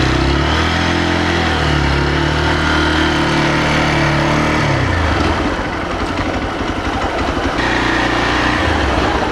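Single-cylinder engine of a Hero XPulse 200 motorcycle running on the move, its note stepping up and down in pitch; about halfway through it turns rougher and noisier.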